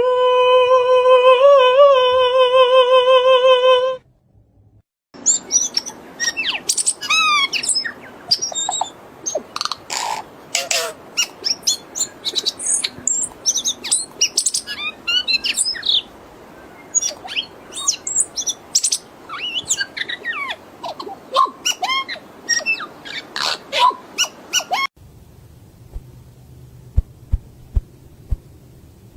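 Birds singing and calling: many quick chirps and whistling notes that rise and fall, after a short gap. Before the gap, a loud, long, wavering pitched call lasts about four seconds. Near the end a low hum with soft regular thumps takes over.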